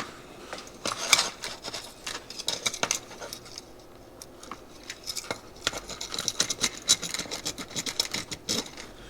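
Light clicks and scratchy rubbing of a thin wire being worked through a go-kart carburetor jet to clear it of debris.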